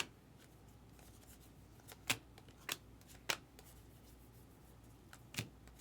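Baseball trading cards being handled and flipped through, with about five short, sharp snaps of card against card spread over a few seconds.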